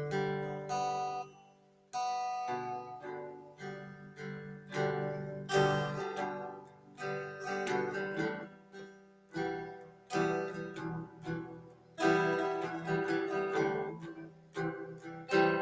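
Acoustic guitar music: strummed chords and plucked notes that ring and fade.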